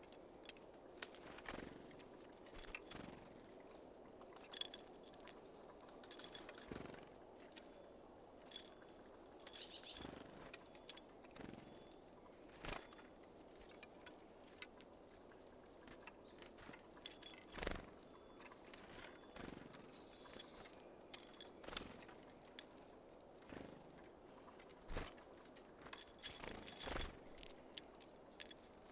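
Small birds at a feeder: irregular light taps and clicks as they peck at and handle seeds, with a few faint high chirps.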